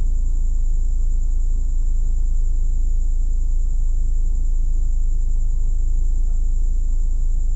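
Ford Lynx's engine idling steadily, a low even rumble heard inside the car's cabin, with a steady high-pitched whine above it.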